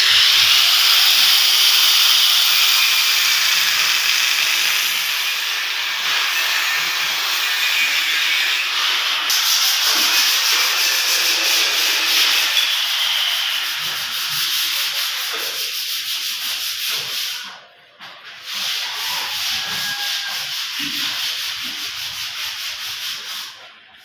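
Electric arc welding: a steady, loud crackling hiss of the arc, which breaks off briefly near the three-quarter mark and then starts again before stopping near the end.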